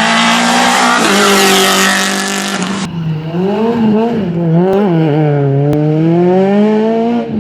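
Renault Clio rally car's four-cylinder engine at high revs, under a loud hiss for the first few seconds. The hiss stops suddenly about three seconds in. After that the engine note rises and falls several times as the throttle is lifted and reapplied through the corners.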